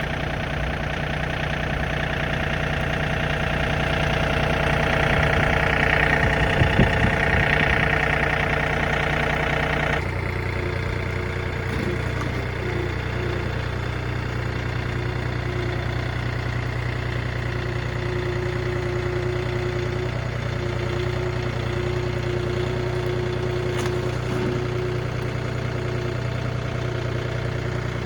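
An engine running steadily. Its sound changes abruptly about ten seconds in and then carries on steadily.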